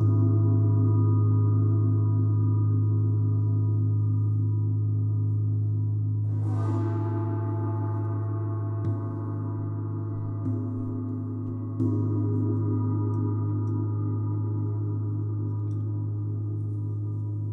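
Deep gong ringing with a long, wavering sustain. It is struck softly at the start and again three times later. A brighter shimmering wash rises about six seconds in.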